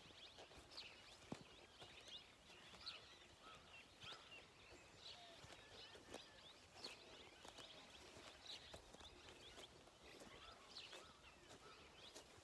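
Faint birds chirping: many short, high calls scattered irregularly.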